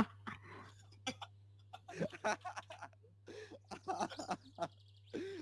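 Scattered short clicks and scuffs, with a brief high chirp from a small pet bird about three and a half seconds in.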